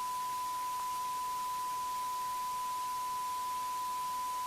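A steady electronic pure tone at about 1 kHz over faint hiss, held at an unchanging pitch and level like a test tone.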